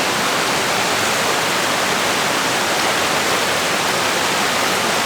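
Waterfall splashing down, a steady, loud rush of falling water.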